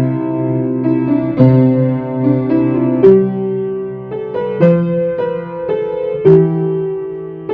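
Solo piano playing a Christmas carol, single notes and chords struck and left ringing.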